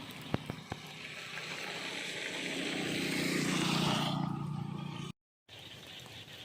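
A small engine passing by, growing louder to a peak about four seconds in and then fading, with a few sharp clicks in the first second.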